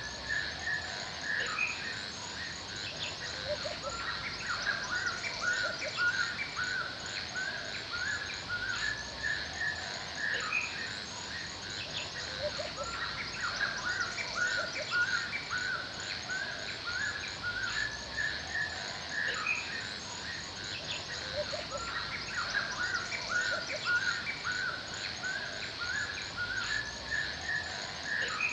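Forest birds chirping and singing, with many short, quick notes repeating throughout, over a steady high insect drone.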